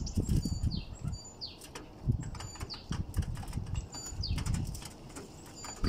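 Pigeons flapping their wings at close range as they jostle for food, with scattered sharp taps and a few brief high chirps.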